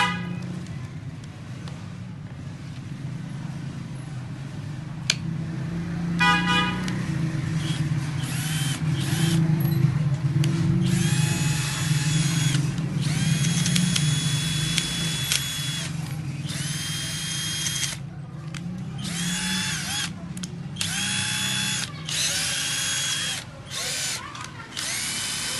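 INGCO 12V lithium-ion cordless impact drill run in a series of short trigger pulls, its motor whining up to speed for a second or two each time and then stopping. Two short car-horn honks sound at the start and about six seconds in.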